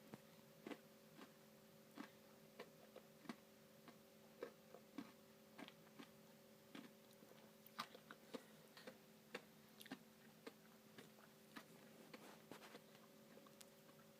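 Faint chewing of a mouthful of Dairy Queen Blizzard: a string of small, irregular crunching clicks about one or two a second, over a faint steady hum.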